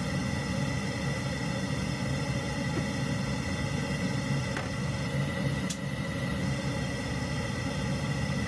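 Steady drone inside a moving vehicle's cabin, with a constant high tone running through it and a couple of faint ticks.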